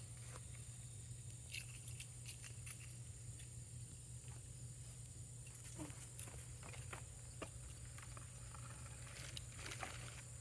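Small campfire crackling: scattered, irregular pops and snaps of burning wood over a steady low hum.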